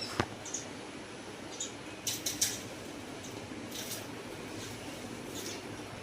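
Small birds chirping in short, scattered high calls, with a denser cluster about two seconds in, over a steady background hum.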